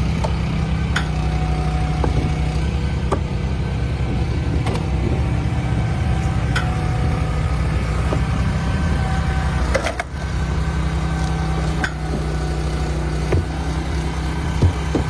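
Diesel engine of a hydraulic wood splitter running steadily, with sharp cracks and knocks now and then as the machine works the logs.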